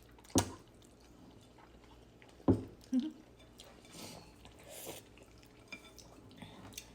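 Eating noodles: two sharp knocks about two seconds apart, from utensils or chopsticks against a bowl, with soft chewing and mouth sounds between.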